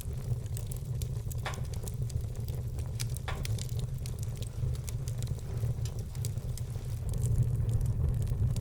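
Wood fire burning, with a steady low rumble and frequent small crackles and pops from the logs, two sharper pops about a second and a half and three seconds in.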